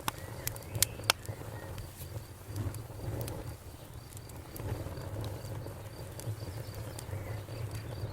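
Campfire burning with sharp crackles and pops over a low, wavering rumble of flames; the pops cluster in the first second or so, then come more sparsely. An insect chirps steadily in the background, a few times a second.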